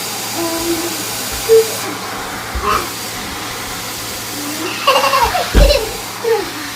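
Vacuum cleaner running steadily, a constant rushing hiss with a faint high whine, with brief voice sounds over it, loudest about five and a half seconds in.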